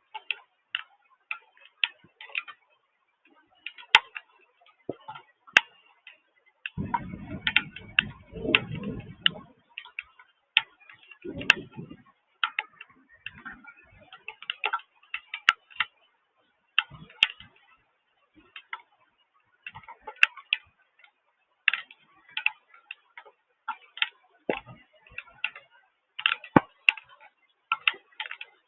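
Raindrops ticking irregularly, several a second, on a hard surface close to the microphone. A low rumble comes in about seven seconds in and lasts a couple of seconds, with a shorter one near the middle.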